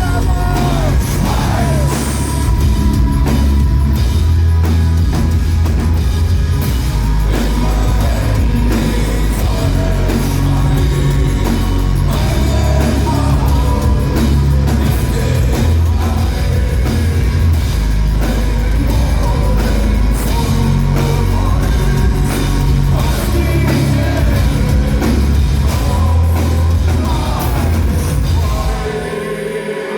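Heavy metal band playing live at full volume: pounding drums and heavy bass with a sung vocal line. The music stops about a second before the end.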